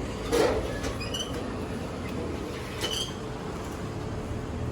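Train running with a steady rumble, with brief high wheel squeaks about one and three seconds in.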